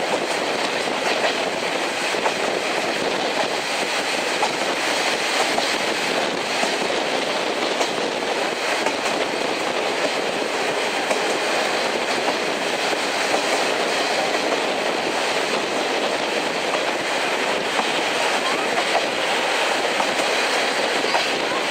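Passenger train running along the line, heard from inside a coach: a steady rumble of wheels on the rails, with clickety-clack over the rail joints.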